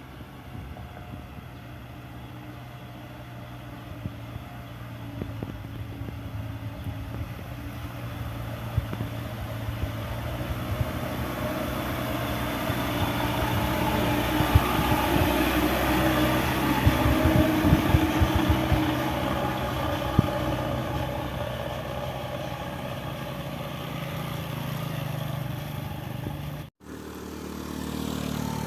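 Engine of a heavy sand-laden truck labouring up a steep incline. It grows steadily louder to a peak about halfway through, then eases off. The sound cuts out abruptly near the end and a similar engine sound resumes.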